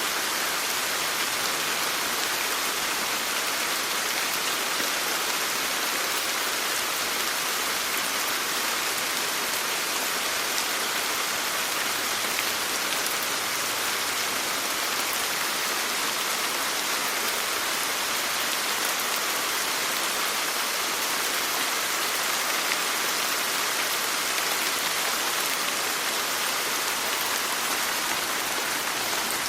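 Steady rain falling, an even hiss with fine drop ticks and no let-up.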